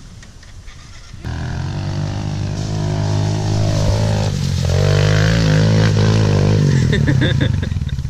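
Small motorcycle engine opening up sharply about a second in and running hard under throttle. It grows louder, then fades near the end.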